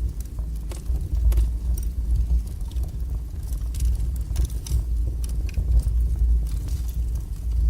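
Wood fire burning in a fireplace: a steady low rumble with frequent irregular crackles and pops of the burning logs.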